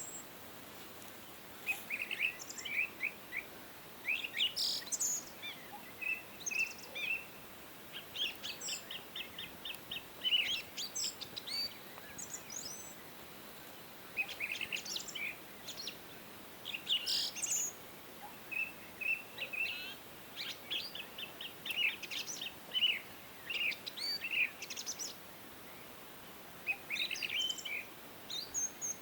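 Several songbirds singing and chirping: short trills and rapid chirp series in bursts, with brief gaps, over a faint steady hiss.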